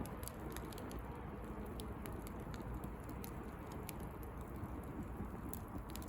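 Bonfire of dry pruned branches crackling: scattered sharp snaps and pops, irregular and several a second, over a steady low rumble.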